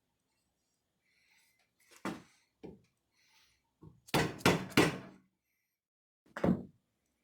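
A series of dull knocks at irregular intervals: single knocks about two seconds in, then three loud quick ones in a row about four seconds in, and one more near the end.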